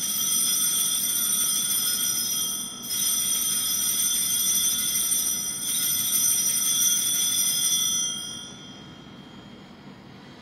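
Altar bells rung three times in a row at the elevation of the consecrated host, each ring lasting about three seconds; the ringing dies away a couple of seconds before the end.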